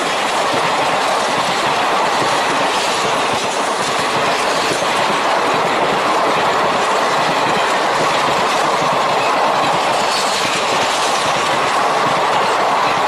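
Passenger coaches of an express train passing at speed close by: a loud, steady rush and clatter of steel wheels running over the rails.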